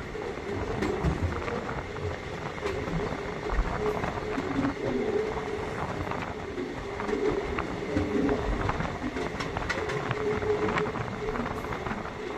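ICF passenger coach running along the track at speed: a steady rumble of wheels on rail, broken by irregular clicks and knocks.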